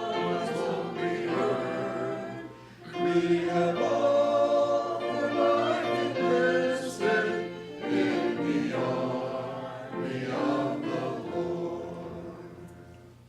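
Congregation singing a hymn together with instrumental accompaniment, in sung phrases, the last one fading out near the end.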